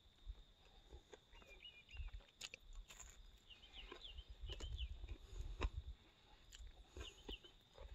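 Faint chewing and crunching of crispy fried sweet potato, with a few sharp crunch clicks. Short bird chirps come several times, over a faint steady high-pitched hum.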